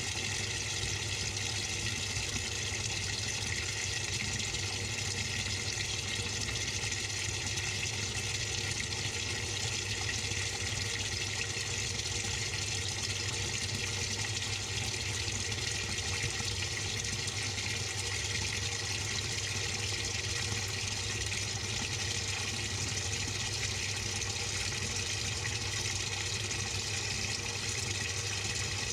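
Steady rush of water inside the drum of a Samsung 6.5 kg top-load washing machine, heard from inside the drum, with a low steady hum underneath.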